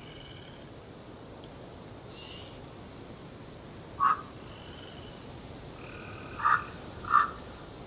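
A bird gives three short calls, one about four seconds in and two close together near the end, over faint high bird chirps in a steady forest hiss.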